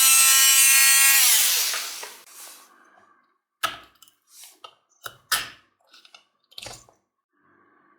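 A small electric power-tool motor runs at steady speed with a whine, then is switched off and winds down, its pitch falling away over about a second. Several sharp clicks and knocks follow in the quiet.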